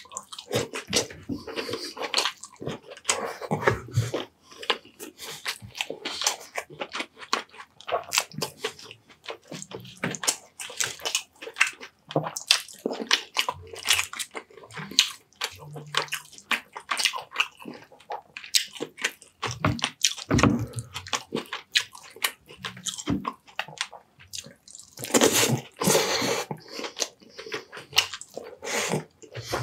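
Close-miked wet chewing and lip-smacking of a person eating fish and rice: a dense, irregular stream of sticky mouth clicks and smacks.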